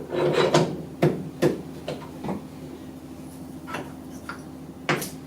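Scattered metallic clinks and knocks as a freshly machined test plate is taken out of the machine and handled, several sharp strikes about a second apart. A steady low hum runs underneath.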